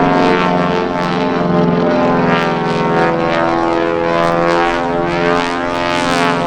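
Propeller aircraft in flight, its engine drone steady and many-toned, wavering as the aircraft passes.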